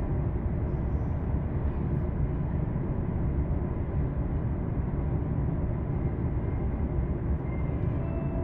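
Steady low rumble and hum heard inside a Tokaido Line commuter train car, even throughout with faint steady tones over it.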